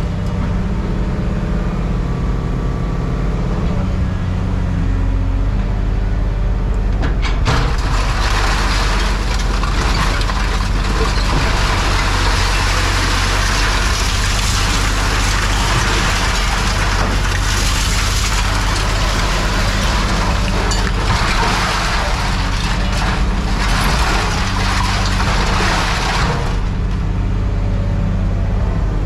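Heavy engine running steadily, with a loud, rough hissing and scraping noise from about seven seconds in until a few seconds before the end.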